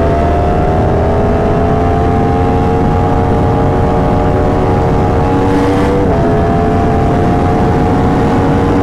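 A motorcycle engine running under steady throttle, heard from the rider's own bike over heavy wind rush. Its pitch climbs slowly, dips briefly about six seconds in, then holds steady.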